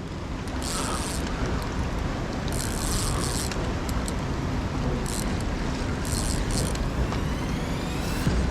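Steady rushing of river water near a waterfall, with brief hissy bursts four times.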